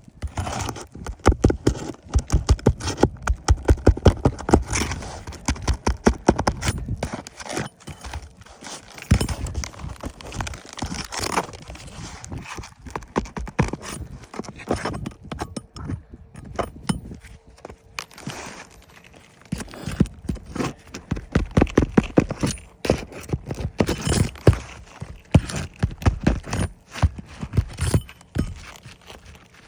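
Runs of rapid, sharp knocks mixed with scraping from hand tools working on roof shingles, as a shingle is pried and worked loose for removal. The knocking comes in three spells: the first several seconds, a shorter spell around ten seconds in, and a longer one in the second half.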